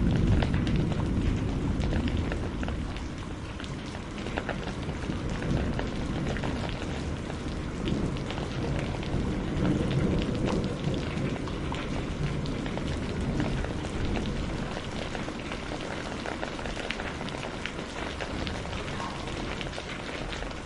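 Steady rain with fine drop patter, over a low rumble of distant thunder that swells near the start and again about ten seconds in.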